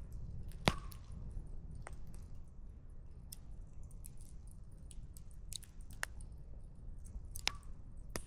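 Wood campfire crackling: scattered pops and snaps of burning firewood, with a sharper, louder pop about a second in and another near the end, over a low steady rumble.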